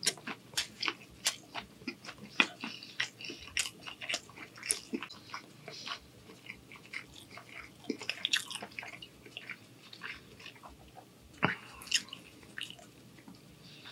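Close-miked chewing of a mouthful of shrimp and angel hair pasta: wet mouth smacks and clicks in quick, irregular succession, thinning out about halfway through.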